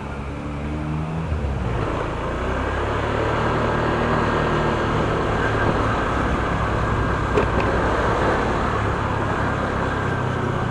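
Motorcycle engine running while riding, with wind and road noise on the microphone growing louder as it picks up speed about two seconds in, then holding steady.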